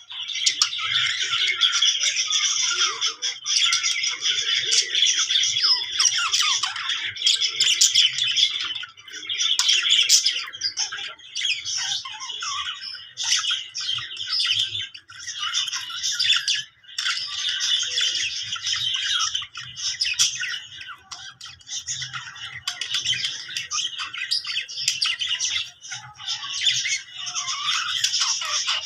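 Budgerigar chattering and warbling almost without a break, a dense run of squawks and chirps with brief pauses around a third and halfway through.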